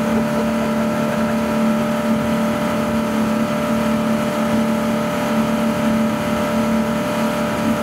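Ski boat's inboard engine running steadily at speed, a constant hum over water and wind noise.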